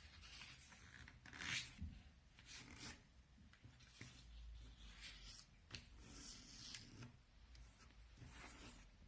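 Faint rustling and brushing of a square sheet of origami paper as it is folded corner to corner and creased, with a few louder swishes.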